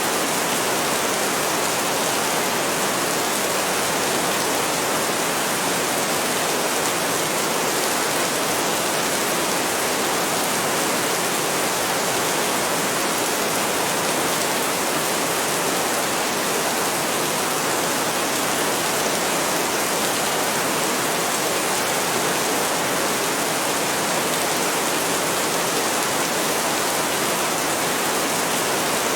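Heavy rain falling steadily: a dense, even hiss with no thunder and no change in strength.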